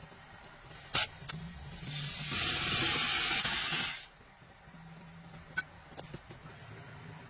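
A sharp click, then a hissing spray that lasts about two seconds and cuts off suddenly, followed by a few light taps.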